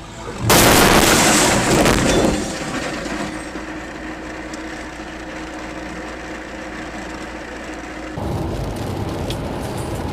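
A vehicle collision: a sudden loud crash with breaking glass lasting about two seconds. It is followed by steady vehicle engine and road noise, which turns louder and deeper about eight seconds in.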